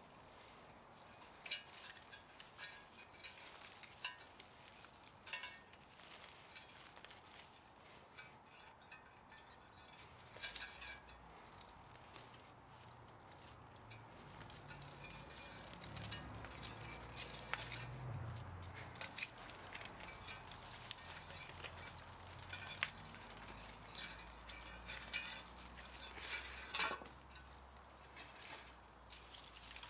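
Scattered light clinks and taps of metal parts and hand tools being handled while an electric motor is taken apart for scrap. A low steady hum comes in about a third of the way through.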